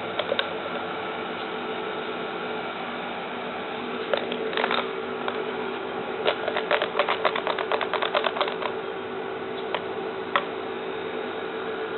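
Light, sharp clicks and taps over a steady hum. The clicks come singly and in short clusters, with a quick run of about six a second in the middle.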